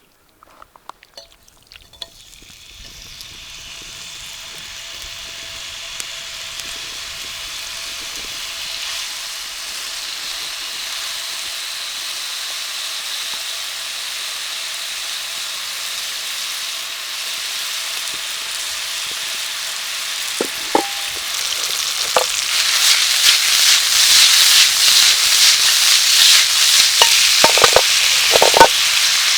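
Food sizzling in a hot frying pan, the sizzle building up gradually and growing louder about two-thirds of the way through, with a few sharp taps near the end.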